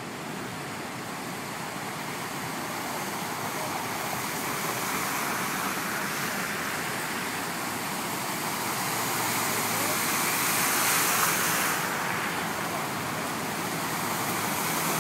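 Cars driving through floodwater on a flooded road: a continuous rushing wash of tyre spray and moving water that swells as vehicles pass, loudest about two-thirds of the way in.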